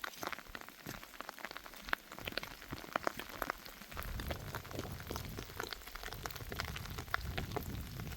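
Rain falling, with drops ticking irregularly on a nearby surface over a light hiss. About halfway through, a low rumble comes in and stays underneath.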